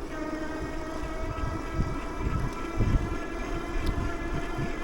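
A motorized bike's motor running at a steady cruising speed, a constant whine of several steady pitches, with wind gusting on the microphone underneath.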